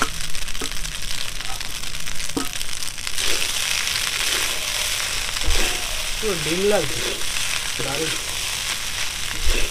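Spiced fusilli pasta with vegetables sizzling in a steel karahi over a fire, as fried chhana is tipped in from a steel bowl and stirred through with a metal spatula. The sizzle gets louder about three seconds in.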